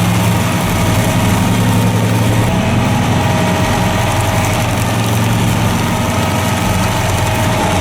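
Engine of a large stump-grinding machine running steadily at an even pitch.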